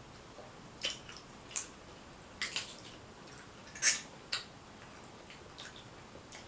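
Close-up eating sounds from a saucy seafood boil: several short, wet clicks and snaps scattered irregularly, the loudest about four seconds in.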